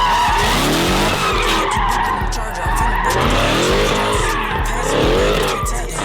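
Cars drifting: engines revving up and falling back again and again, over continuous tyre squeal and skidding.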